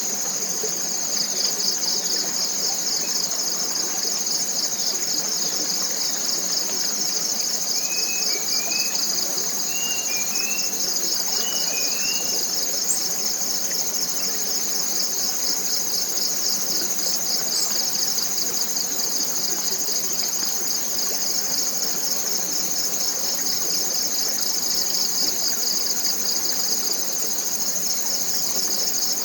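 Dense chorus of forest insects: a steady high buzz with a fast, even pulsing trill beneath it. A bird gives a few short chirps about eight to twelve seconds in.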